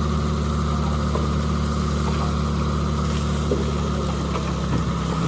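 Bulldozer's diesel engine running steadily, its note changing just before the end.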